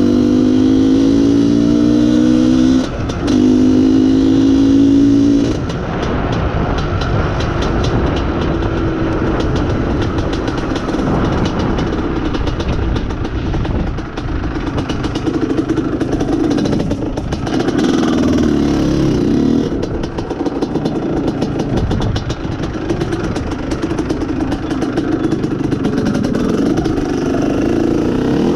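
IZh Planeta Sport motorcycle's single-cylinder two-stroke engine under way. It revs up in pitch for the first few seconds, with a brief break about three seconds in, then runs on more evenly at a lower, rougher pitch.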